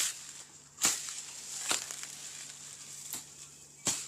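Footsteps crunching on dry leaf litter: five sharp crunches at about walking pace.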